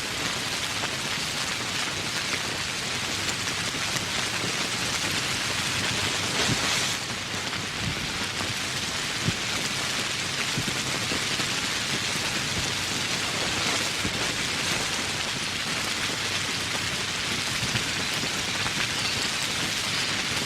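Steady rain falling, a dense even hiss of many drops that eases briefly about seven seconds in.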